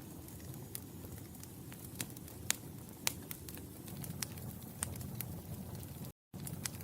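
Wood fire burning in a fireplace, crackling with irregular sharp pops over a low steady rumble. The sound cuts out completely for a split second near the end.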